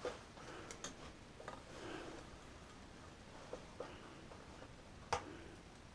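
Faint scattered clicks and light taps, about half a dozen, with a sharper click about five seconds in: small parts and tools being handled on a workbench.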